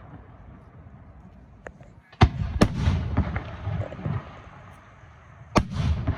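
Fireworks bursting overhead. After a low rumble, a sharp bang comes about two seconds in, followed by a couple of seconds of further reports, then another sharp bang near the end.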